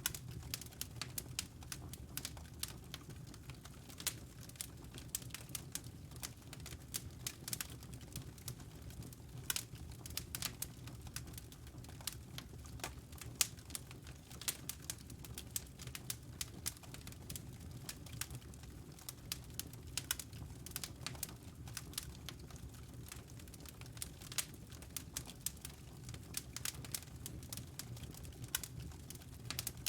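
Wood fire crackling in a fireplace: a fast, irregular scatter of sharp snaps and pops over a low, steady rumble of burning.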